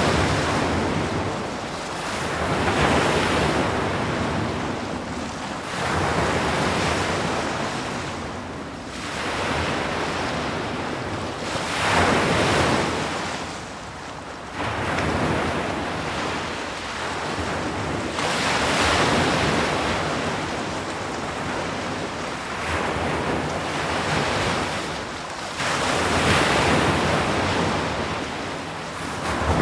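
Ocean waves breaking and washing up a shore, the surf swelling and falling away every few seconds, with wind over it.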